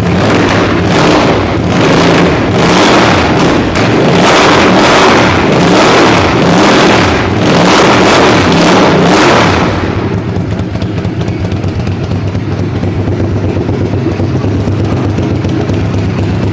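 Honda VTR1000F Superhawk's 90-degree V-twin engine being revved repeatedly, the revs rising and falling again and again. About ten seconds in it drops back to a steady idle.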